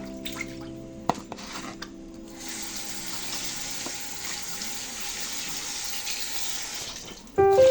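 Tap water running steadily into a sink, starting about two seconds in and stopping shortly before the end.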